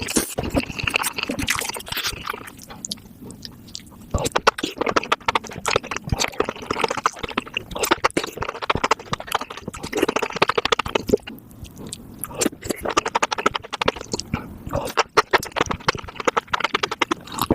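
Sped-up close-miked eating sounds: a person chewing and biting spicy mushrooms, a rapid, dense stream of wet crunches and clicks.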